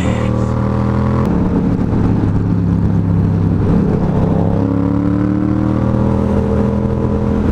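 Yamaha FZ-07 parallel-twin engine running steadily at freeway cruising speed, heard from on the bike with wind rush. The engine note changes a little over a second in.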